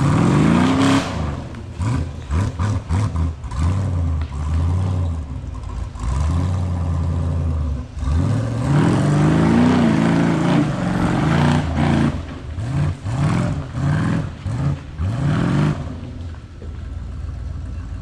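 Off-road 4x4's engine revved over and over in short throttle bursts, its pitch rising and falling repeatedly, with clattering knocks mixed in. It settles to quieter, steadier running near the end.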